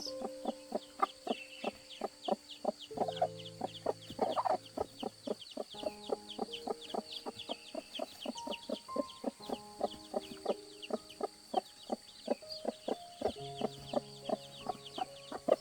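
Chicks peeping steadily with a hen clucking, over light background music with a steady beat.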